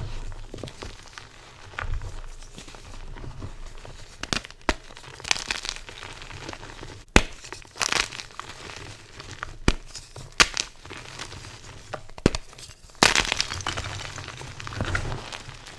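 Blocks of gym chalk being crushed by hand: a string of irregular sharp cracks and snaps between softer crumbling, with a longer loud crunch about thirteen seconds in.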